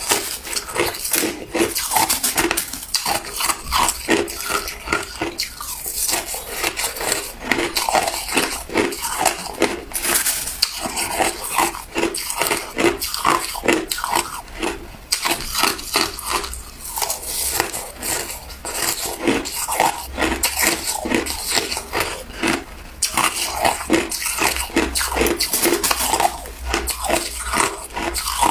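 Ice being bitten and chewed: a dense, unbroken run of sharp crunches and cracks.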